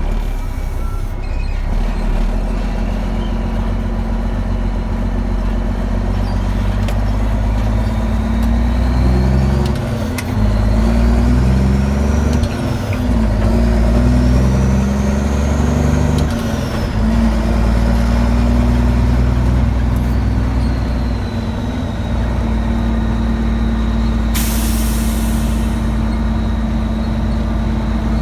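Dump truck engine running as it drives, its pitch stepping up and down through gear changes between about 9 and 17 seconds in, with a faint whine rising and falling alongside. A short hiss of air, like an air-brake release, comes about 24 seconds in.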